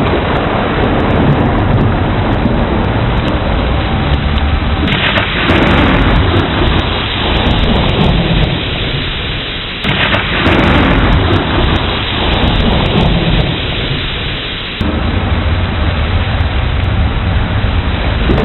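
Heavy rain pouring steadily, with deep rumbling thunder underneath. Sudden louder surges come about five and ten seconds in.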